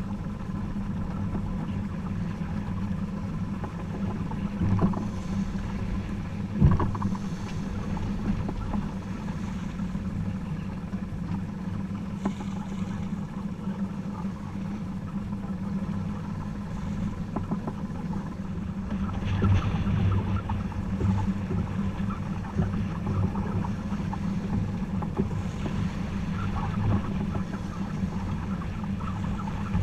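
A sailboat's engine running steadily with a low hum, under wind and water noise, with a sharp knock about a third of the way in.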